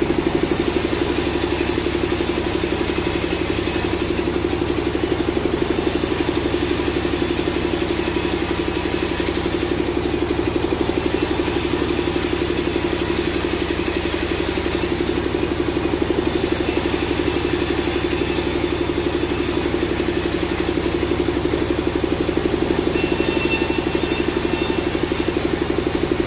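Sawmill machinery running steadily with an even, engine-like hum. A higher hiss fades and comes back every few seconds.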